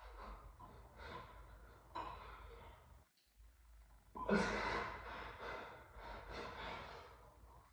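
A man breathing hard with forceful exhales and gasps while lifting a set, the loudest breath about four seconds in.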